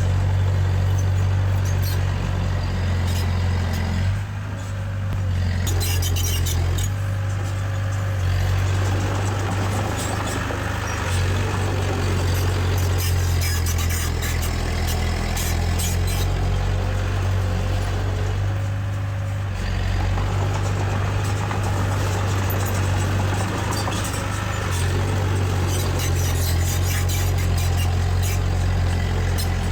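Diesel engine of heavy earthmoving machinery running steadily with a low hum, with scattered rattles and clicks over it and a brief dip about four seconds in.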